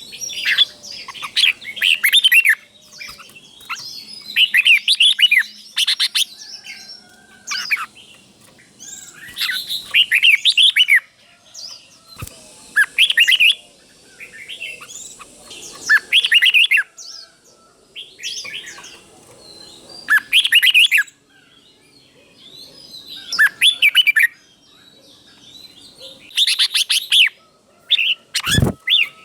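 Red-whiskered bulbul singing, short bright warbling phrases repeated every second or two, with doubled phrases. A single sharp knock near the end.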